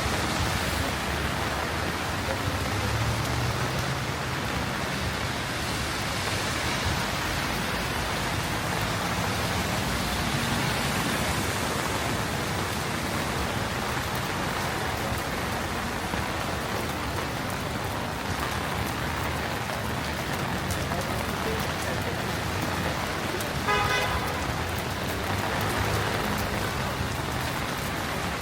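Heavy rain falling steadily, with car traffic passing on the wet street. Near the end a car horn gives one short toot.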